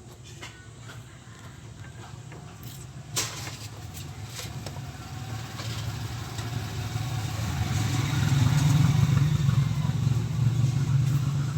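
A motor vehicle engine running with a low rumble that grows steadily louder over several seconds, with one sharp click about three seconds in.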